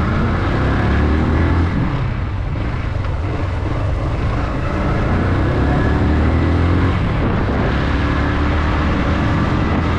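Motorcycle engine running on the move, its pitch climbing several times as it accelerates, under heavy wind rush.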